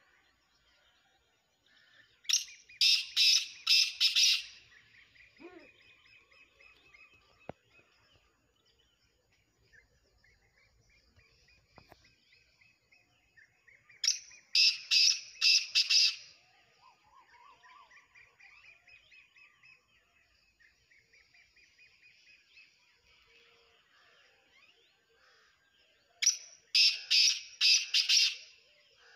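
Black francolin (kala teetar) calling: three loud bursts of about five harsh, sharp notes each, roughly twelve seconds apart, with faint chirping of other birds in between.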